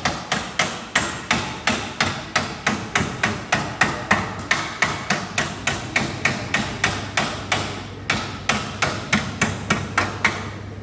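Hammer blows on a tractor seat under repair, struck at a steady rhythm of about four blows a second.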